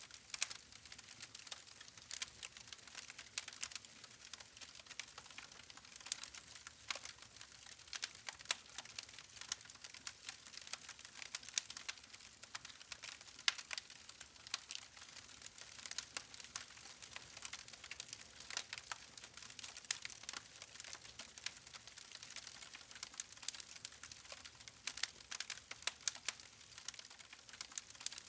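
Log campfire crackling quietly: many small, irregular sharp snaps over a faint hiss of burning wood.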